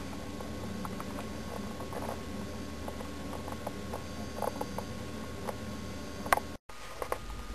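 Light, scattered taps and clicks of small model-railroad parts being handled and fitted by hand, over a steady low room hum. A sharper click comes about six seconds in, and the sound drops out for a moment just after.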